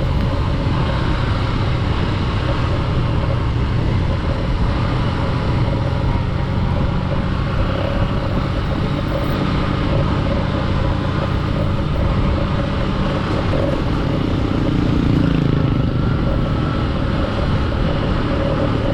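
Honda XR150's single-cylinder engine running at a steady pace while riding, with an even road-noise hiss.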